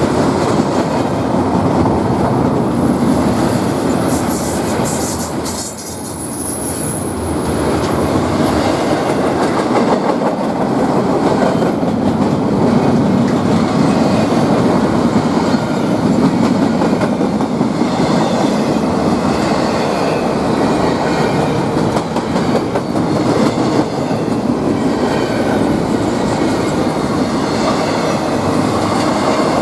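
A train rolling past with its wheels clattering steadily over the rails, and a thin high squeal for a few seconds near the start.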